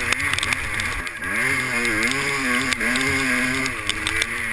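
Two-stroke 250 motocross bike engine revving up and down as the throttle is worked, with a sharp rise about a second in and the revs falling away near the end, with scattered sharp ticks throughout.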